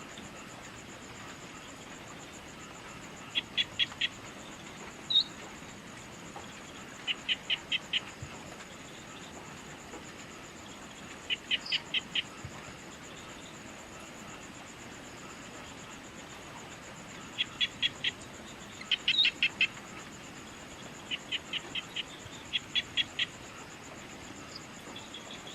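Outdoor evening ambience: a steady, high insect trill throughout, with a bird giving short bursts of four or five quick notes every few seconds and a few single higher chirps between them.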